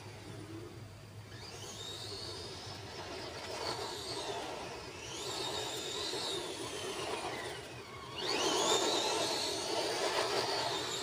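Motor of a Madgear Desert Wolf RC short course truck whining as it drives, the pitch rising and falling with the throttle over a rushing tyre noise. About eight seconds in the whine climbs sharply and grows louder as the truck speeds up.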